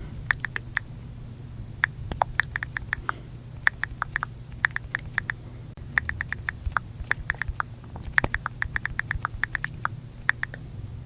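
iPhone keyboard click sounds while typing: quick runs of short, sharp clicks, several a second, broken by short pauses, over a steady low hum.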